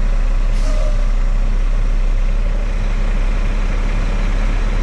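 Semi truck's diesel engine running with a steady low rumble, heard from inside the day cab. A short hiss of air comes about half a second in.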